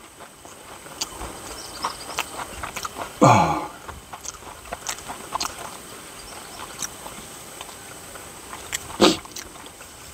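A person chewing and biting into fried, breaded sea bass cutlet, with small scattered crunching clicks. About three seconds in comes one short voice sound that falls in pitch, and near the end a sharper crunch.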